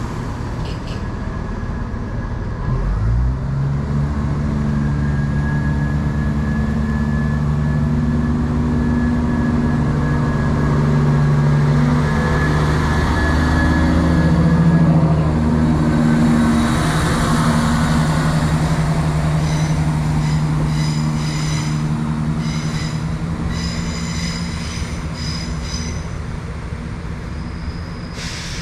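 Two-carriage diesel multiple unit pulling away: its diesel engine rises in pitch about three seconds in, then runs steadily under power. High-pitched wheel squeals come and go in the second half.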